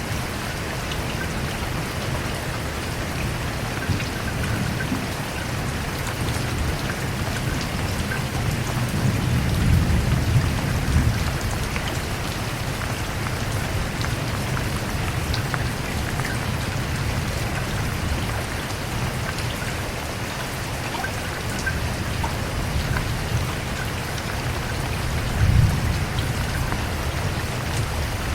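Steady rain falling, with scattered drops ticking on a surface. Low rumbles swell up about ten seconds in and again near the end.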